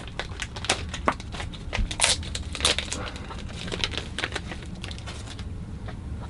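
Plastic wrapping crinkling and rustling in irregular short bursts as it is handled, stopping about five and a half seconds in.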